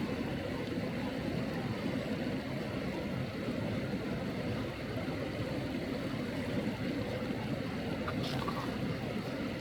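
Steady low rushing of flowing water in a valley stream.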